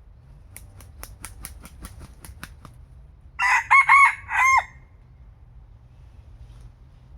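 A red junglefowl cock gives one short, clipped crow in a few broken notes, about three and a half seconds in. Before it comes a quick run of about ten sharp claps.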